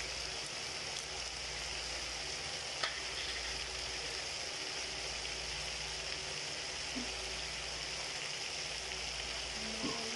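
Chicken pieces, potatoes and carrots sizzling steadily in a wok on a gas stove, with one light click about three seconds in.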